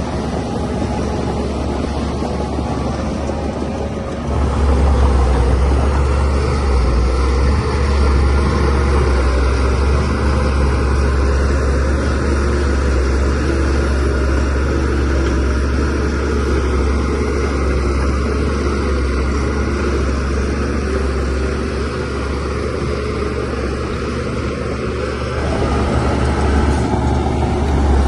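Diesel engine of a DH17C3PRO bulldozer running steadily with a deep low drone. It gets louder about four seconds in and stays up.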